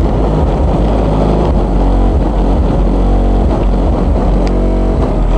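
Very loud, bass-heavy music from a competition car audio system with JBL subwoofers, the deep bass far louder than everything else.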